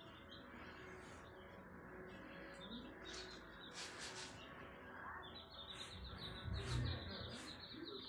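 Small birds chirping, short high notes scattered throughout, with a quick run of chirps in the second half. A low thump comes about two-thirds of the way through.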